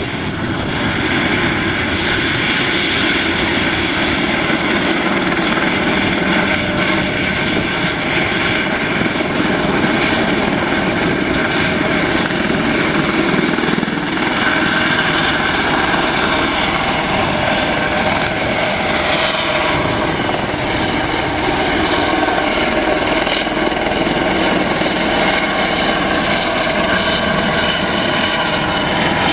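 Helicopter running steadily: an even engine and rotor drone with a thin, high whine on top.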